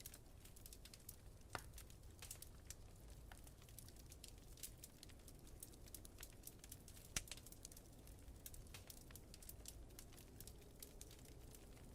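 Wood fire crackling quietly, with irregular small pops and snaps over a low, steady rumble. The sharpest pop comes about seven seconds in.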